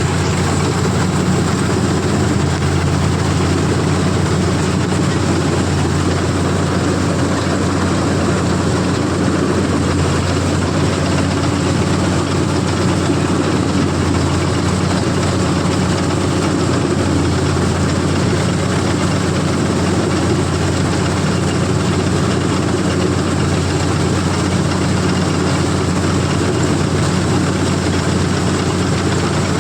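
CLAAS combine harvester's diesel engine running steadily at a constant, deep hum, with the even mechanical noise of the working machine over it.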